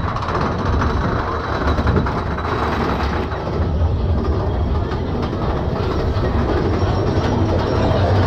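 Big Thunder Mountain Railroad mine-train roller coaster running along its track: a steady, loud rumble of wheels on rail with rattling and clattering over it, heard from aboard the train.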